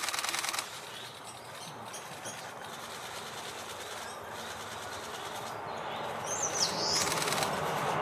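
Woodland birds: a short raspy, rattling burst right at the start and another about seven seconds in, with a brief high whistled note just before the second, over a background hiss that grows louder.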